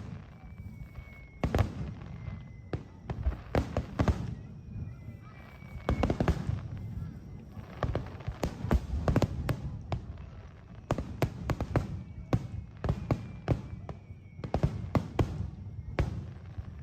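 Fireworks display: aerial shells bursting in quick clusters of sharp bangs and crackles, with a low rumble between them.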